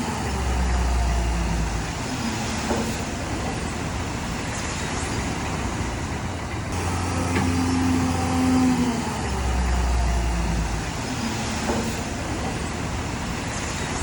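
Heavy diesel earthmoving machinery running, with a deep low rumble in short spells and engine tones that rise and fall as it works. The same stretch of sound plays twice, repeating after about seven seconds.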